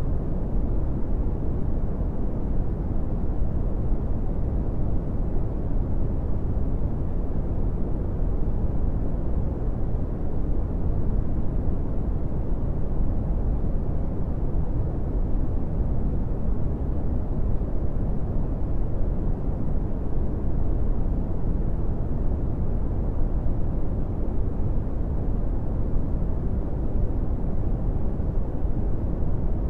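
Steady brown noise: an even, deep rumbling hiss with most of its energy in the bass and little treble, unchanging throughout.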